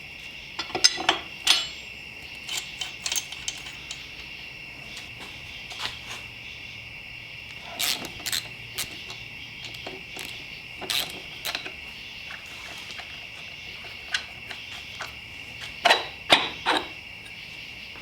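Irregular sharp metal taps and clicks, in clusters about a second in, around the middle and near the end: a screwdriver being knocked against a dirt bike's steering stem nut to loosen it, in place of a spanner wrench. A steady high-pitched trill runs underneath.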